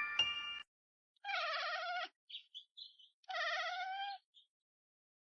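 A small animal's drawn-out, wavering cries, two of about a second each, with a few faint short chirps between them. Piano music cuts off just before the first cry.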